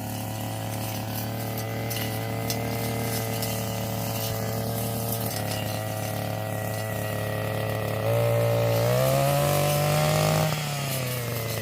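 Small two-stroke engine of a handheld forestry power tool running steadily at a fast idle. About eight seconds in it is revved louder with its pitch rising, then it eases back down near the end.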